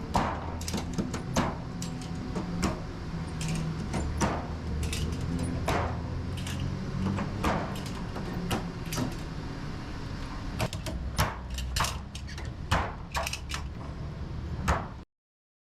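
A low, steady rumble with frequent sharp clicks and knocks over it, cutting off suddenly near the end.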